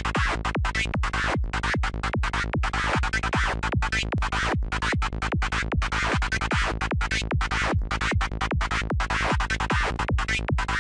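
Dark FM-style psytrance lead synth patch in NI Massive playing a fast, even pattern of short notes, about five a second. Its upper tone keeps shifting as an LFO modulates it.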